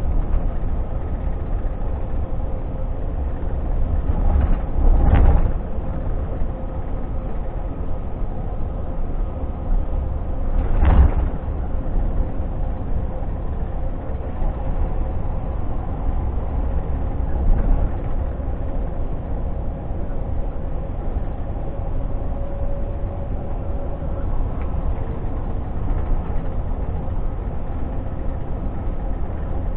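Scania G460 truck's six-cylinder diesel and road noise heard from inside the cab, a steady low rumble with a faint steady whine. Three short knocks of the cab rattling over bumps stand out, about 5, 11 and 17 seconds in.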